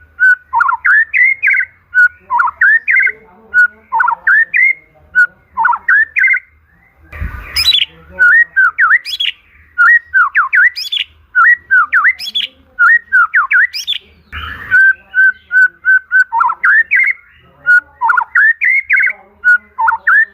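White-rumped shama (murai batu) singing: runs of short, level whistled notes followed by quick phrases of swooping notes that dip and rise. A brief noisy, scratchy burst comes about seven seconds in, and the same run of level notes and swoops starts again about fourteen and a half seconds in.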